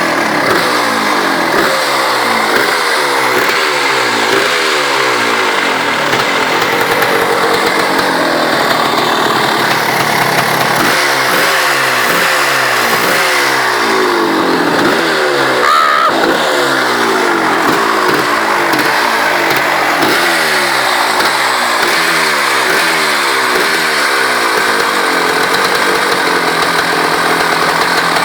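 Two-stroke 300 cc GasGas EC 300 engine in a pit bike, its throttle blipped over and over, each rev rising and falling back, about once a second. Near the end it settles to a steady idle.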